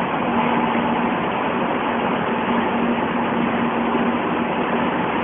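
Madrid Metro train running, a steady loud rush of noise with a steady low hum and a fainter higher tone through it.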